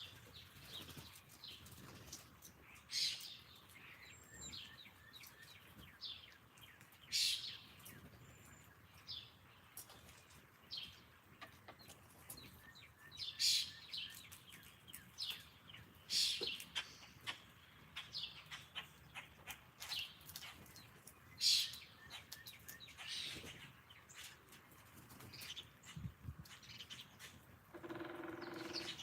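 Wild songbirds chirping: short, sharp high calls every second or so, with a brief lower, more tuneful call near the end.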